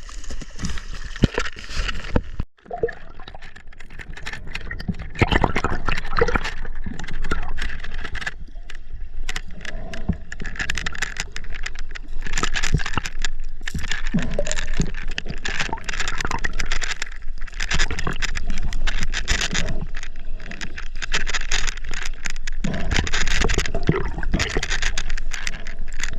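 River water gurgling and sloshing close to the microphone in irregular surges, with a brief cut-out about two and a half seconds in.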